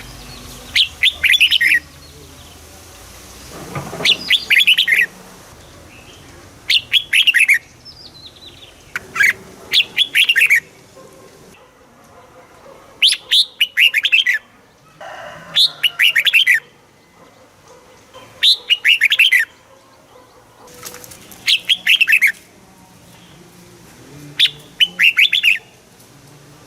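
Red-whiskered bulbul singing: short, fast warbled phrases of quick gliding notes, one about every two to three seconds, nine in all.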